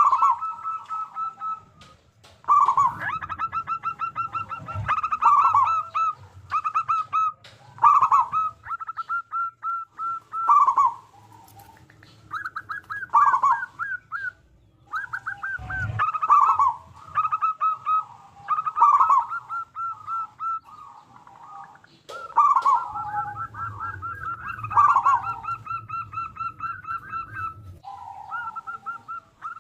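Zebra doves cooing over and over. Each phrase is a run of quick staccato notes that ends in a louder, lower, drawn-out coo.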